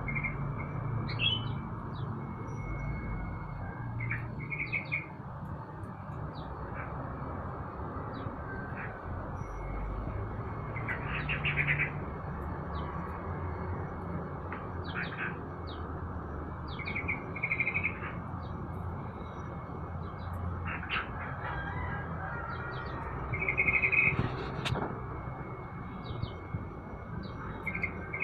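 Caged songbirds chirping in short, scattered calls and brief trills, with a couple of louder phrases, over a low steady background rumble.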